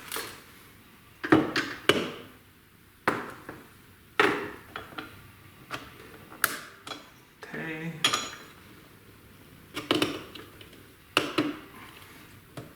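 Irregular metallic clicks, knocks and clatter from handling a portable metal-cutting band saw while fitting its blade band into the guides, with a short rattle a little past the middle.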